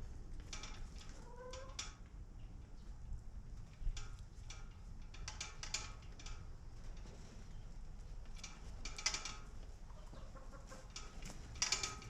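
Domestic chickens clucking in short scattered bouts every few seconds, over a steady low rumble.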